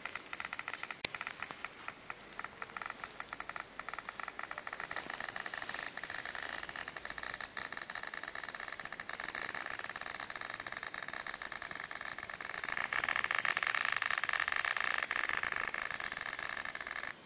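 Lenovo S10-3 netbook's hard drive making its strange noise during disk access. It starts as rapid, irregular clicking, then turns into a steady, high whirring buzz that grows louder near the end and cuts off suddenly.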